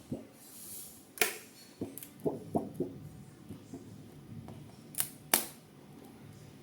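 Hands working on a 3D printer's parts: a string of light knocks and sharp clicks. The loudest clicks come about a second in and twice in quick succession near five seconds.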